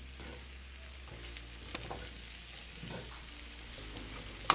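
Chicken and sweet potato hash frying in olive oil in a skillet: a steady sizzle with scattered small crackles, and one sharp click near the end.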